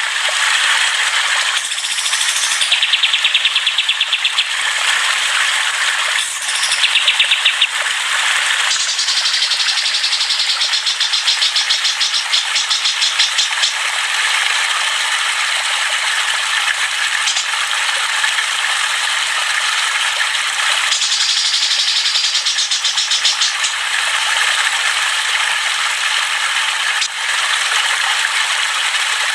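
Several songbirds singing and chattering at once: a dense, unbroken mix of high chirps and fast rattling trills, the kind of songbird chorus played to stimulate caged songbirds.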